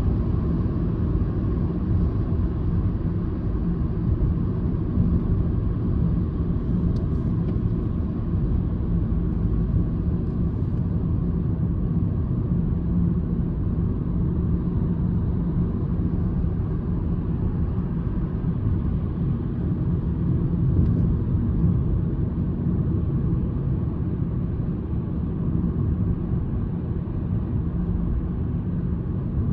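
Citroen C-Elysee's 1.2 three-cylinder PureTech petrol engine and tyres running at a steady speed: a low, even rumble with no revving.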